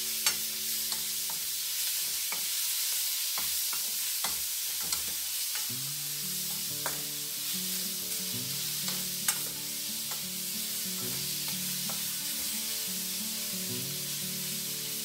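Shrimp sizzling in hot oil in an aluminium wok while a metal spatula stirs it, clicking and scraping against the pan now and then, loudest about nine seconds in.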